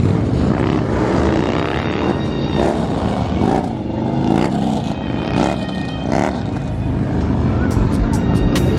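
Loud motor vehicle engines running, with the pitch rising and falling as they are revved, and a run of sharp cracks near the end.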